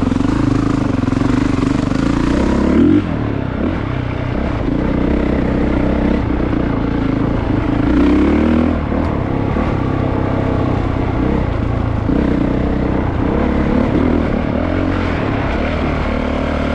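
Honda CRF450RX dirt bike's 450 cc single-cylinder four-stroke engine running under load on the trail. The revs rise and fall as the throttle is worked, with a few sharper rises near the start, the middle and near the end.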